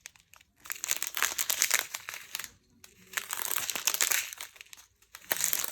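Small plastic bags of diamond painting drills being handled and sorted, crinkling in several stretches with short pauses between.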